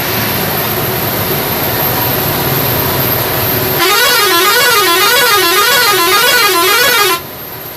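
Steady road and engine noise, then about four seconds in a loud electronic siren wails up and down about one and a half times a second for some three seconds and cuts off suddenly.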